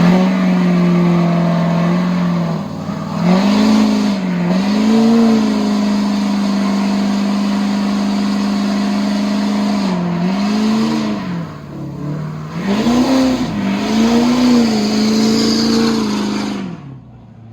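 A vehicle engine revved high and held at steady revs over a dense hiss. The revs dip and climb back several times, then fall away near the end.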